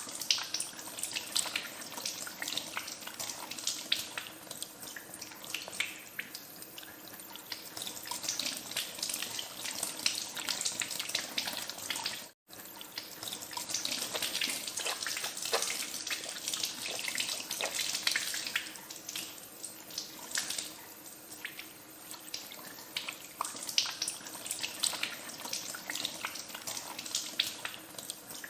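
Tap water running into a sink while hands are washed under the stream, with many small splashes and drips. The sound cuts out for an instant about twelve seconds in.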